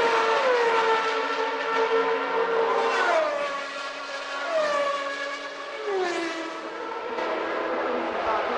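High-revving 1991 Formula One race car engines passing one after another, each engine's high whine dropping sharply in pitch as it goes by and then holding a lower steady note; several overlap.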